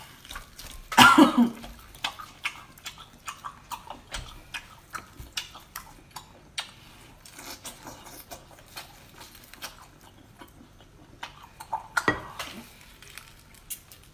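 Close-up chewing and mouth sounds of a person eating a chili-coated octopus: a steady run of short wet clicks and smacks. A loud cough about a second in, and another sharp sound near the end.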